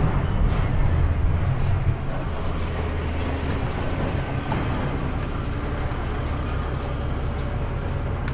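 Steady low rumble of a vehicle driving, engine and road noise holding even throughout.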